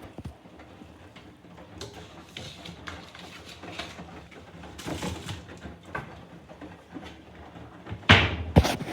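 Candy front-loading washing machine on a 90-degree boil wash: the drum turning and wet bedding and towels sloshing and swishing faintly, with a louder knock and rustle about eight seconds in.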